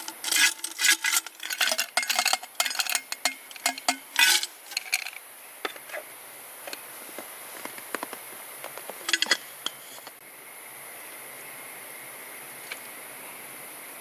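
Metal cookware and utensils clattering and clinking, rapid for the first four or five seconds, then a few scattered clicks. From about ten seconds only a steady rush of the river remains.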